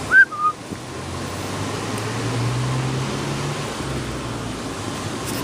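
Steady outdoor background noise with a low hum that swells and fades over a few seconds, like a vehicle going by. Right at the start, a short high chirp: a rising-then-falling note followed by a lower, shorter one.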